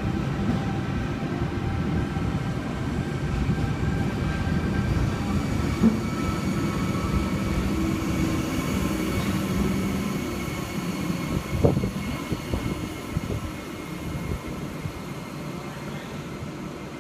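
Eight-car V-set double-deck intercity electric train pulling out of the platform: a dense rumble of wheels and running gear with a steady hum of machinery tones. Two sharp clanks come about 6 and 12 seconds in, and the sound thins out as the last cars leave.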